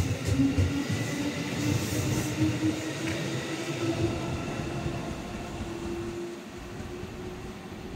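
JR West 221 series electric train moving away along the track, its wheels knocking over the rails and then a steady whine that rises slightly in pitch and fades as it recedes.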